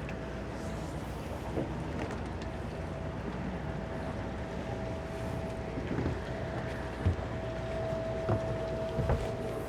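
Towboat's twin Suzuki 200 hp outboard motors running at low speed, a steady low rumble with a steady whine over it, during close-quarters maneuvering. A few sharp knocks come in the second half.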